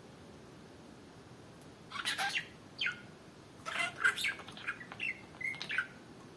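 Budgerigar chirping: a quick burst of short chirps and falling whistled notes, starting about two seconds in and stopping shortly before the end.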